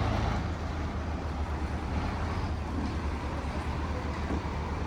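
Steady low engine rumble with street traffic noise, even throughout, with no clear impacts or rhythm.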